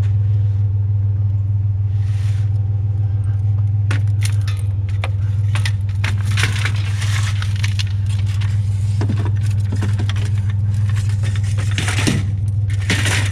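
Metal blind rods clinking and rattling against each other as they are handled, a burst of sharp jangling clicks starting a few seconds in, over the steady low hum of an idling truck engine.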